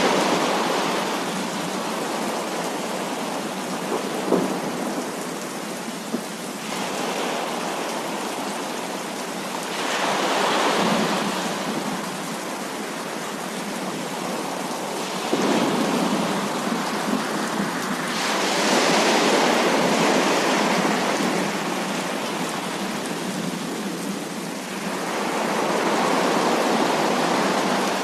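Heavy rain falling steadily, with rolling thunder swelling up several times and dying back.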